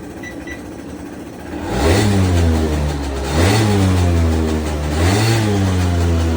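Suzuki ZZ scooter's 50cc two-stroke engine revved three times, about a second and a half apart, each blip rising in pitch and then settling to a raised running speed.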